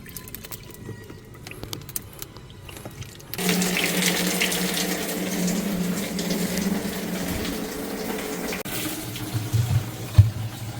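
Water running hard onto ice packed in a fridge to defrost it, with a steady hum alongside, starting about three seconds in and stopping sharply about five seconds later. A few knocks follow near the end.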